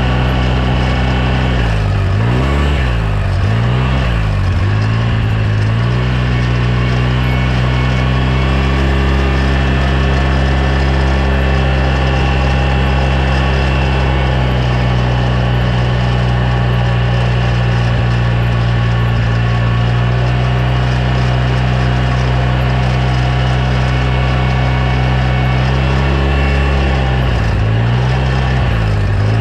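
2009 Polaris RZR 800 S twin-cylinder engine running steadily. Its pitch dips and comes back up a few times about two seconds in, and again near the end.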